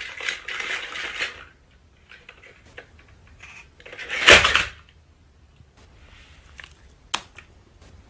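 Light clinks and scrapes of a knife and plate while a cake is cut, with one louder short noisy burst a little past four seconds in and a sharp click near the end.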